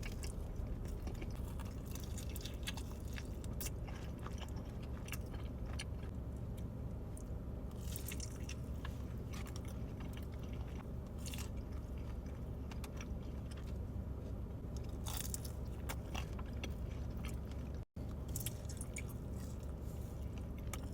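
A person chewing and biting pepperoni pizza close to the microphone, with many small irregular mouth clicks over a steady low hum.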